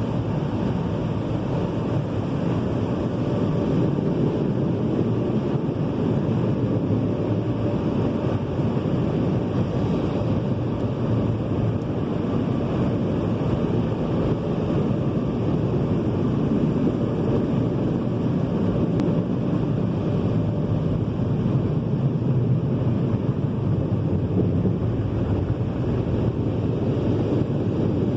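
Steady rushing of an automatic tunnel car wash, heard from inside the car as the equipment works over it.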